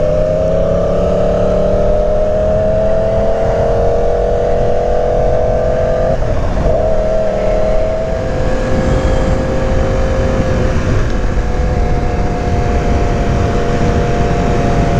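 Motorcycle engine under way, its note climbing slowly for about six seconds. It breaks briefly, as at an upshift, then runs steady. A constant rush of wind noise lies underneath.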